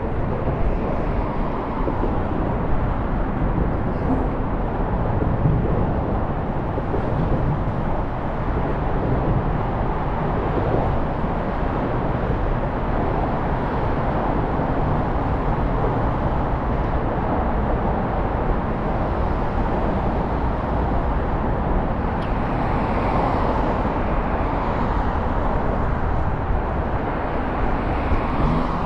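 Steady rush of wind and road noise from a moving scooter in city traffic, with a slight swell of higher hiss about three-quarters of the way through.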